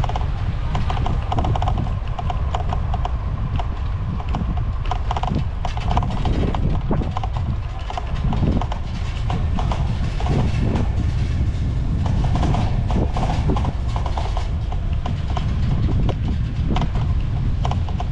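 Wind rumbling on the microphone while riding a bicycle, with frequent irregular clicks and rattles from the bike over the path.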